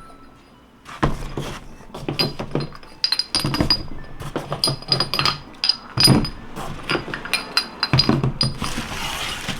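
Small metal engine parts clinking and clattering against each other as they are handled and set down on a table: many quick sharp clicks, some with a short high ring.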